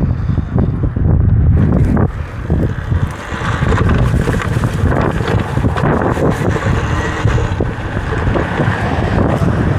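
Heavy wind noise buffeting the microphone of a rider on an electric dirt bike at speed: a loud, uneven rumbling rush.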